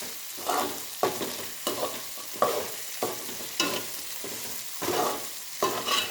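A spoon scraping around a pan in repeated strokes, about one and a half a second, as bird's eye chillies fry in hot oil with a steady sizzle. A few sharp clicks stand out among the strokes.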